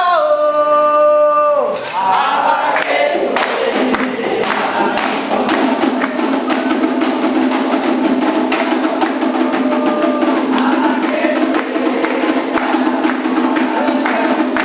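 Candomblé ritual song: voices holding long notes that slide down together, then, about two seconds in, dense fast percussion takes over under group singing.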